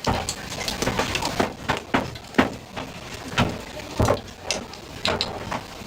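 Cooking utensils clattering: a run of irregular sharp clicks and knocks, with the loudest knocks a little over two seconds and about four seconds in.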